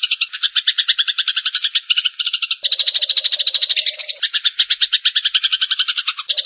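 Sparrows giving their agitated fighting chatter: a fast, unbroken run of chirps, many per second, growing thicker with a lower buzz about two and a half seconds in.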